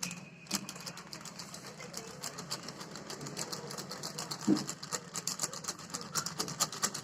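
A spoon clicking and scraping rapidly against a plastic container as flour is spooned in for slime, the taps coming faster toward the end. One duller knock sounds about four and a half seconds in.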